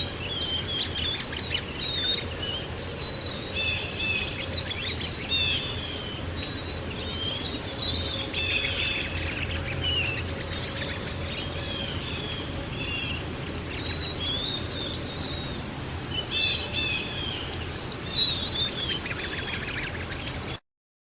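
Several songbirds chirping and singing in quick, overlapping phrases over a steady low background rush. All of it cuts off abruptly near the end.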